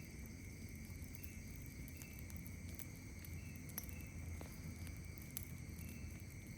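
Campfire crackling faintly, with scattered sharp pops, under a steady high drone of night insects and short insect chirps repeating every second or so.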